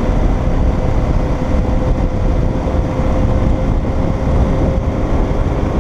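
Steady rumble of wind rush and motorcycle engine on a moving motorcycle, with a thin steady tone running underneath.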